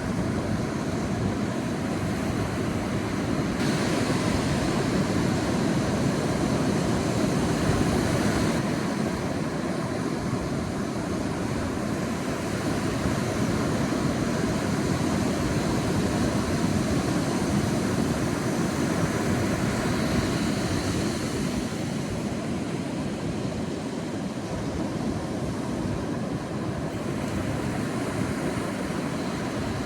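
Sea waves breaking and washing on a beach, a continuous surf noise that swells and eases gently.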